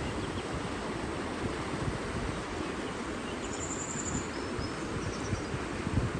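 Outdoor nature ambience: a steady rushing noise with low wind gusts buffeting the microphone, and a few faint, high, short bird chirps about three and a half and five seconds in.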